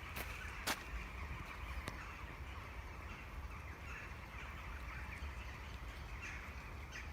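Outdoor ambience: faint bird calls over a steady low rumble, with a few sharp clicks in the first two seconds.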